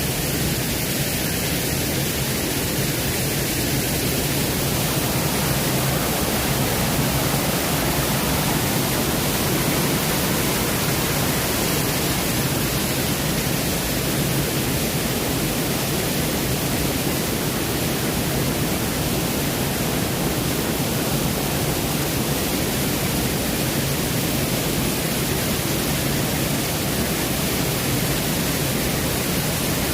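Waterfall cascades rushing in a steady, unbroken roar of falling water.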